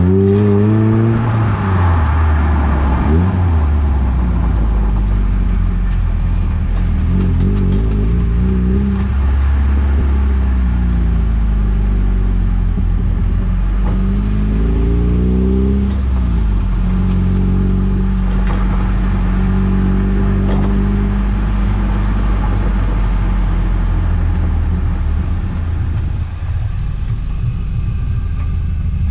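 Eunos Roadster's inline-four engine running as the car is driven, its note rising and falling several times and then holding steady for a stretch past the middle, with road noise underneath.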